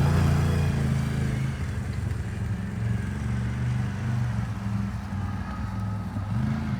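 Motor vehicle engine running steadily at low revs, with a brief rise in revs near the end.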